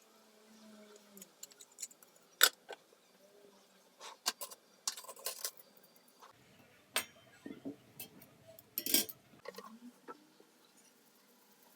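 Scattered clinks and knocks of hard household items being handled, sharpest about two and a half seconds in and again about nine seconds in.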